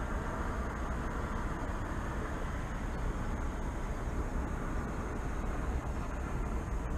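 Steady low rumble of distant city traffic, with a faint, even high-pitched hiss above it.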